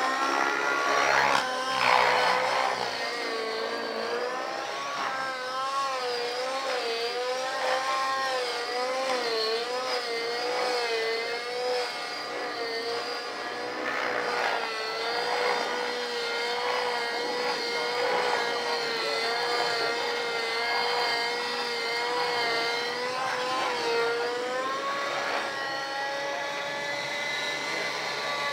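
Radio-controlled helicopter flying 3D aerobatics: a steady whine from the motor and rotor whose pitch wobbles up and down through quick manoeuvres, holds level for several seconds, then steps up near the end.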